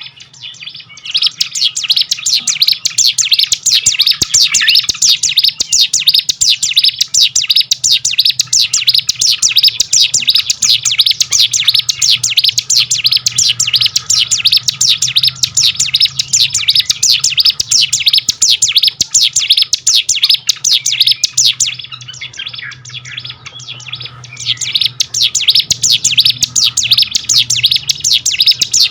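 Ciblek gunung (hill prinia) song: a loud, fast, unbroken run of sharp chirping notes that pauses briefly about 22 seconds in and picks up again a couple of seconds later. A faint steady low hum runs underneath.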